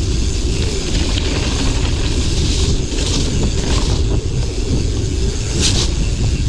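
A mountain bike being ridden over a rough, wet moorland track: a steady low rumble of tyres on the ground and wind on the microphone, with a few short hissy bursts, the sharpest near the end.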